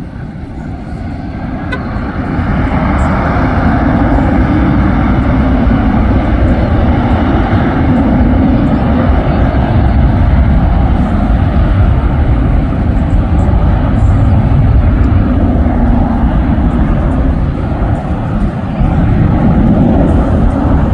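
Jet airliner's engines, a loud steady rumble that builds over the first two or three seconds and then holds.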